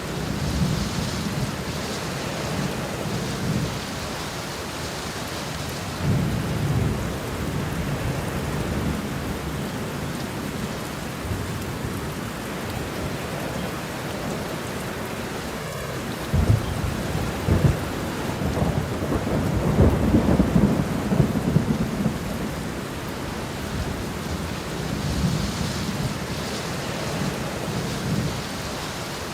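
Steady rain with rolling thunder. Low rumbles swell up several times, the longest and loudest about halfway through.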